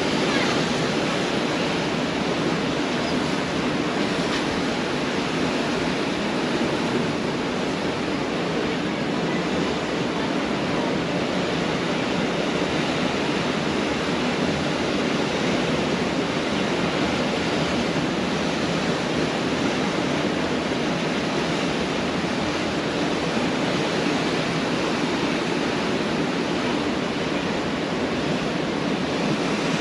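Pacific Ocean surf breaking on a beach, heard as a steady, even wash of water noise with no separate wave crashes standing out.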